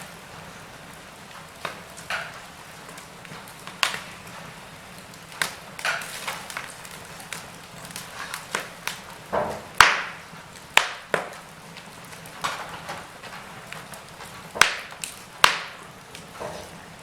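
Fireplace fire crackling: irregular sharp pops and snaps over a soft steady hiss.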